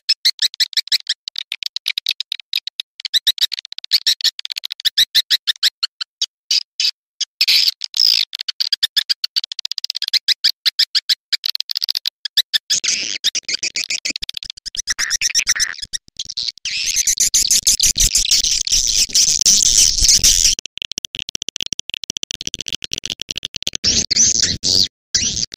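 Swiftlet lure call recording: rapid, high twittering chirps and clicks of swiftlets, many a second, growing denser and louder for a few seconds around the middle.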